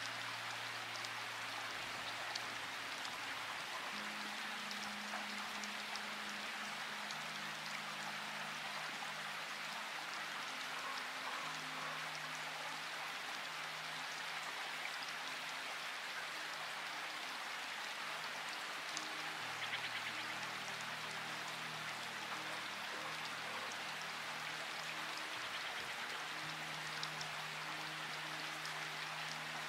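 Steady rain falling, with scattered drop ticks, over soft background music of long held low notes that change every few seconds.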